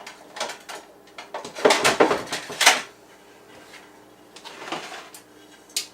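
Kitchen handling noises as a plate is fetched: a cluster of knocks and clatter about two seconds in, and one sharp click near the end, like a cupboard door or a plate being set down.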